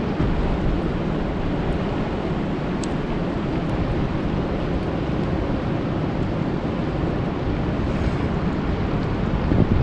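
Steady rain falling on a lake: a dense, even rushing noise heaviest in the low range, with a few sharper drop ticks.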